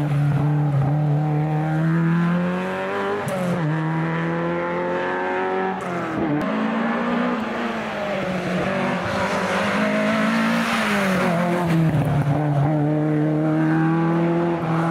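Opel Kadett GTE Group 2 rally car's four-cylinder engine pulling hard under acceleration. Its pitch climbs through each gear, with sharp drops at the upshifts about three and a half, six and twelve seconds in.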